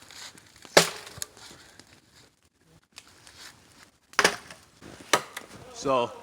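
Axe chopping firewood: three sharp strikes into wood with a lighter one between, spaced irregularly a second or more apart, then a short vocal sound near the end.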